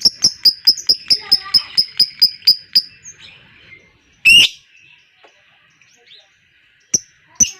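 Lovebird 'ngekek' chatter: a fast, even run of sharp, high repeated calls, about seven a second, that breaks off about three seconds in. A single loud squawk comes a little past four seconds, and the rapid series starts again at the very end.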